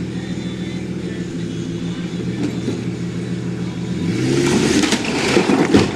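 A motor vehicle engine running steadily, then revving up about four seconds in, joined by a loud rush of noise with several sharp knocks near the end.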